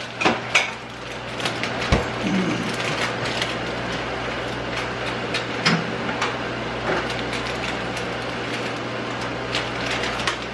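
A steady running hum from a household appliance, with clinks and clicks of dishes and utensils, most of them in the first couple of seconds.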